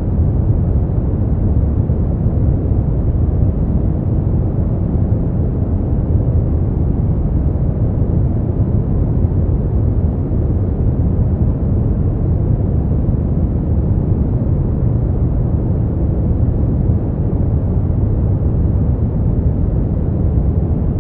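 Synthetic brown noise: a steady, deep, even rumbling hiss, strongest in the bass, with no changes.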